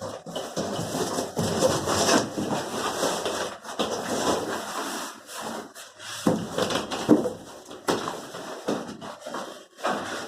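Irregular rustling, scraping and knocking of refrigerator packaging being handled and pulled away: plastic sheet and thermocol (polystyrene) packing.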